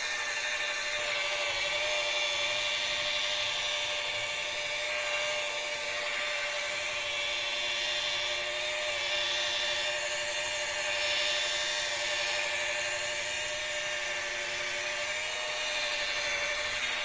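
A handheld power tool running steadily, with a constant mid-pitched whine and a hiss that swells a little now and then.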